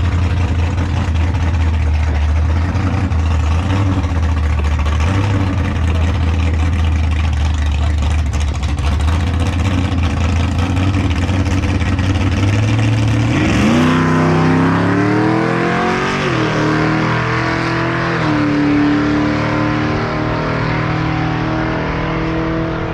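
Drag car engine idling with a low, steady rumble. About 13 seconds in, the car launches: the engine pitch climbs steeply, drops at a gear change and climbs again as the car accelerates hard down the strip.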